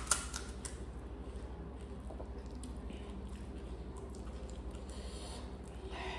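Close-miked chewing of crisp pani puri, with a light crack right at the start and soft crunching and wet mouth sounds that grow a little busier near the end. A low steady hum runs underneath.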